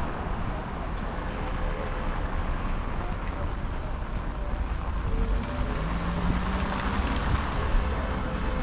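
Wind buffeting the microphone over steady city traffic noise, with the faint hum of a passing vehicle's engine.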